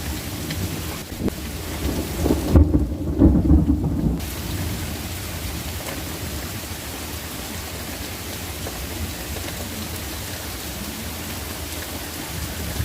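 Steady rain falling, with a low rumble of thunder about two seconds in that lasts roughly two seconds.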